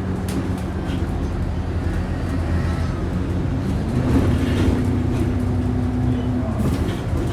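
Alexander Dennis Enviro 400 double-decker bus heard from on board as it drives, its diesel engine running with the whining "hoover" note that enthusiasts give this bus. The engine note climbs a little under halfway through, holds, and drops away near the end.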